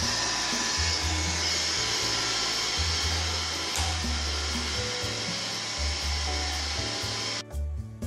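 Roomba robot vacuum running: a steady whirring hiss of its vacuum motor and brushes over background music, cutting off suddenly about seven and a half seconds in.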